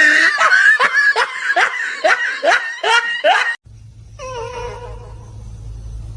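A cat meowing over and over in quick short calls, about two a second, each rising in pitch. The calls stop abruptly a little past halfway, giving way to a low hum and a single lower, falling call.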